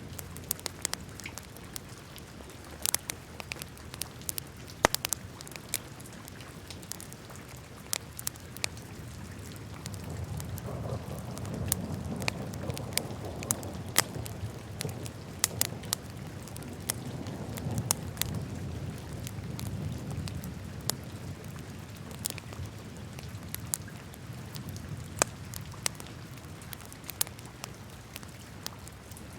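Wood fire burning in a fireplace, crackling with frequent sharp, irregular pops over a low, steady flame noise. The flame noise swells for several seconds in the middle.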